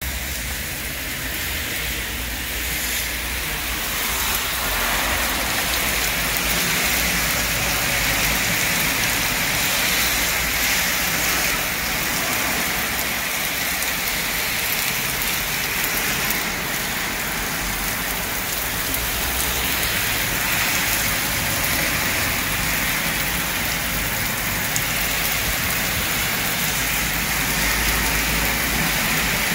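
Heavy rain pouring onto brick paving and a wet road: a steady hiss that grows a little louder about four seconds in.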